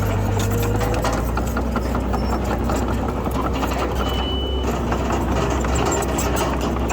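Heavy earthmoving machinery's diesel engine running steadily, with a dense metallic clatter. A single short high beep sounds about four seconds in.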